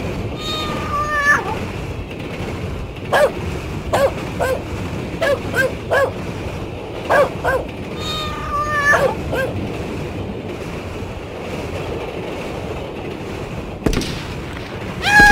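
Sound effects of pets: a kitten meowing, with a run of short puppy yips and whimpers, over a steady background hiss. Right at the end, a person starts to scream.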